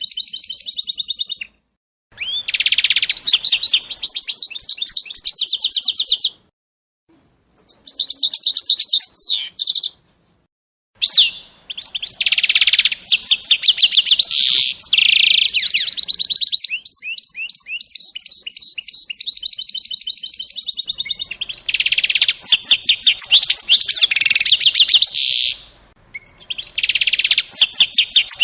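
Small songbird singing in long, rapid trilled phrases of high chirps, each run lasting several seconds, with short breaks between them.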